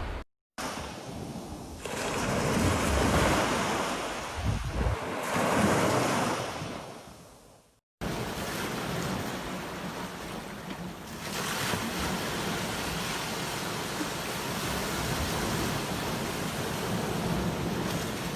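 Sea waves breaking and washing up on a beach, the surf swelling and falling away. The sound cuts out briefly just after the start and again about eight seconds in, where separate recordings are joined.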